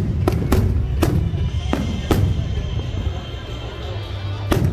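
Aerial firework shells bursting in a series of sharp bangs, about five in the first two seconds and another near the end, over music playing in the background.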